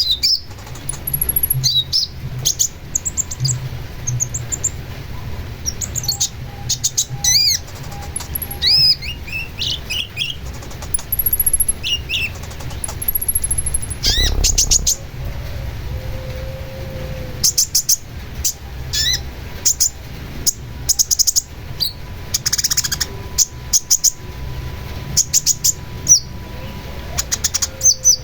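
Long-tailed shrike (cendet) singing a fast, varied song of sharp chirps, quick repeated notes and sweeping whistles, over a steady low hum.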